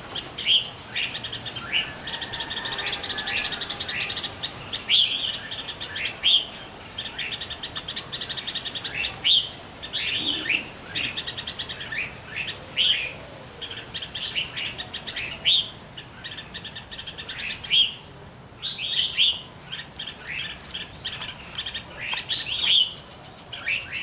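A songbird calling over and over: short, sharp downward-sliding chirps about once a second, mixed with runs of fast, rattling trills.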